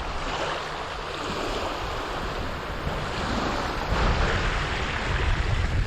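Wind gusting across the microphone over choppy river water, with waves splashing; the low wind buffeting grows stronger about four seconds in.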